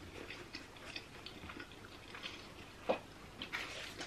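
Quiet mouth sounds of people chewing sushi, with scattered small wet clicks and one sharper click about three seconds in.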